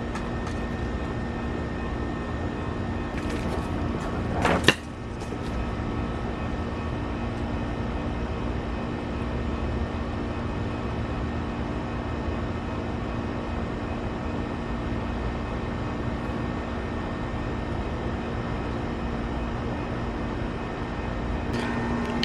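Electric motor of an animated zombie ground-breaker prop running with a steady hum, with one sharp knock about four and a half seconds in.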